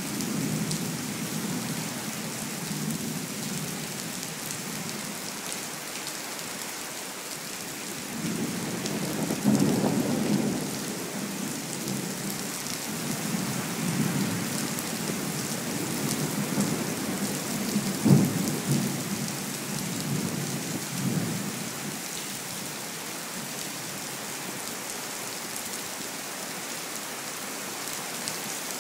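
Steady rain hissing throughout, with rolling thunder: a long low rumble builds about eight seconds in, swells and rolls on for over ten seconds with one sharper crack partway through, then dies away, leaving just the rain.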